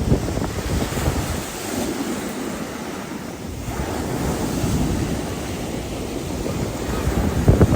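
Mediterranean sea waves washing in, with wind buffeting the microphone; the wind rumble grows heavier near the end.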